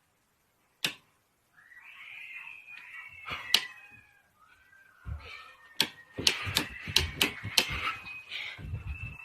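An animal crying in drawn-out calls that slide up and down in pitch, with a sharp click about a second in and a quick run of clicks past the middle.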